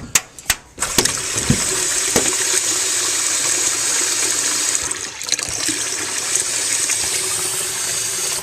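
Washerless kitchen faucet turned on to test it after its cartridge repair: a couple of clicks, then water running steadily into the sink from about a second in.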